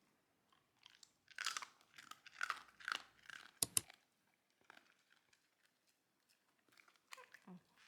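Crunchy food being bitten and chewed in irregular crunches, with two sharp clicks a little past the middle.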